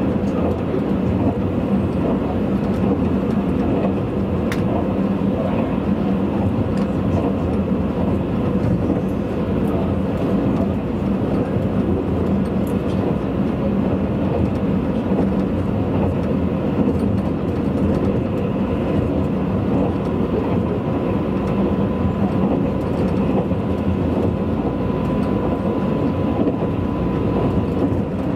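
Tobu 100 series Spacia limited-express train running, heard from inside the passenger car: a steady rumble of wheels on rail with a faint steady hum, the hum a little stronger in the last third. A single sharp click about four and a half seconds in.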